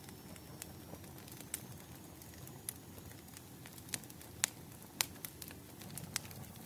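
Wood fire crackling: irregular sharp pops and snaps over a low steady rumble and hiss, with a few louder pops about four to five seconds in.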